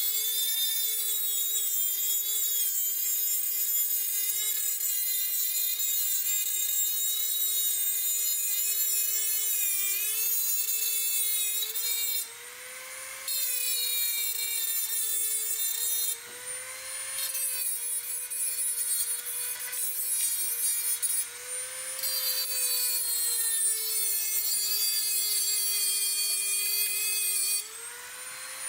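Electric grinder grinding steel: a steady motor whine with a high scraping hiss that wavers under load. Three times the disc is briefly lifted off the metal and the hiss drops out while the motor keeps spinning, and near the end it comes off for good and the whine rises slightly as it runs free.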